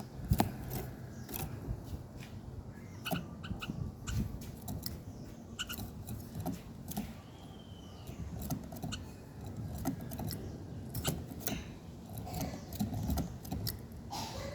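Bird calling with a few short, curved chirps amid many sharp clicks and taps.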